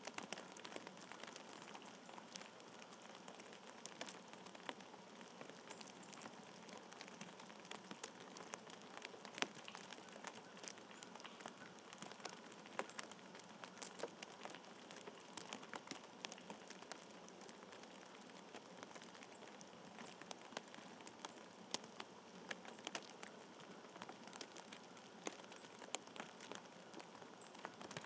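Faint steady outdoor hiss with many small, irregular ticks and patters, as of light precipitation falling on a surface.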